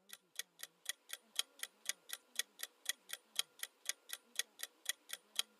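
Clock-style ticking of a quiz countdown timer sound effect, steady at about four ticks a second.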